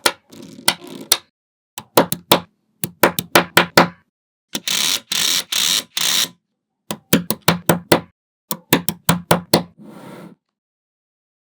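Small magnetic balls snapping together: sharp clicks in quick runs of several at a time, with a dense clattering rattle of many balls for about two seconds in the middle.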